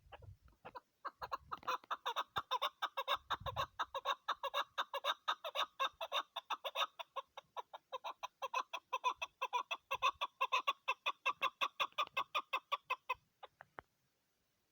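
Female chukar partridge calling: a long, fast run of short clucking notes, several a second, that starts about a second in and stops about a second before the end.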